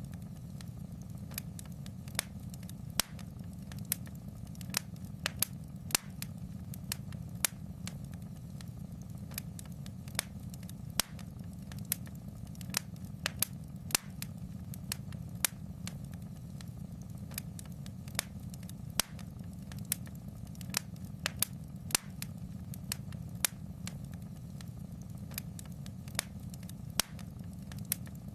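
Fire crackling in a fireplace: irregular sharp pops and snaps, a few a second, over a steady low rumble.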